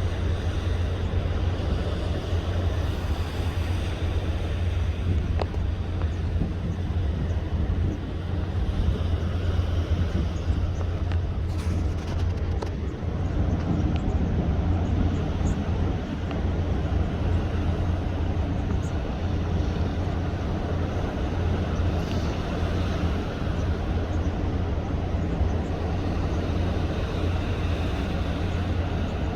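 Steady low drone of a boat's engine running under way, with a rushing haze of wind and water noise over it.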